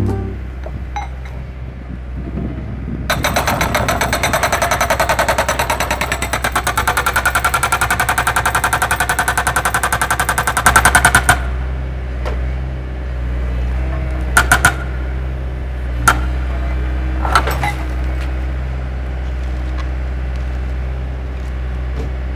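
Excavator's diesel engine running steadily, with a fast rattling, hammering clatter for about eight seconds, then a few short metallic clanks.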